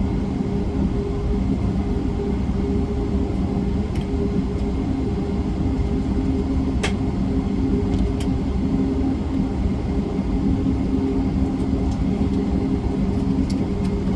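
Steady low rumble of a parked Boeing 737-8 MAX's cabin, with a constant hum and a few sharp clicks, the first about seven seconds in.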